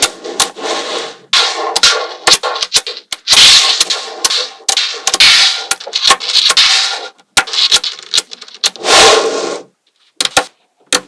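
Small metal magnetic balls clicking, snapping together and rattling against one another as they are handled, with a ringing metallic tone in the longer rattles. It goes quieter about ten seconds in, then the sharp clicks resume.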